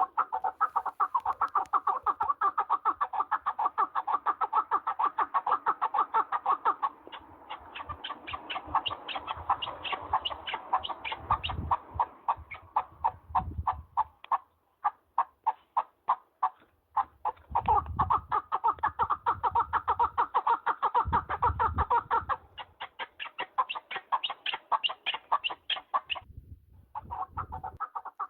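Partridge calling in long runs of rapid, clucking notes, several a second, pausing briefly now and then. A few low bumps sound beneath the calls.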